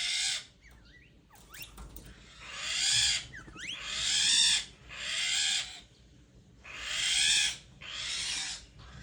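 Birds calling: about six harsh, noisy calls, each swelling and fading within a second, repeating every second or so, with a few thin, quick chirps from a smaller bird in the gaps.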